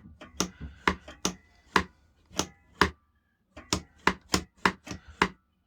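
A quick run of hard clacks, about two or three a second, pausing for about half a second in the middle and then starting again. The source is the biscuit jointer's plastic runner being slid back and forth in its metal track, which has gone a little stiff over time.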